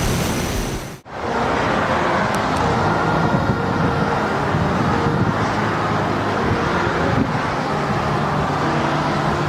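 Aircraft engines running with a steady, loud noise. The sound drops out abruptly for an instant about a second in, then carries on unchanged.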